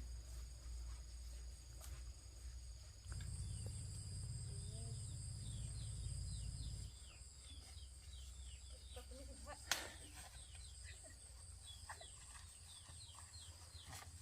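Insects drone steadily over rapid, repeated short falling chirps from small birds, with a low rumble underneath. A single sharp click comes a little under ten seconds in.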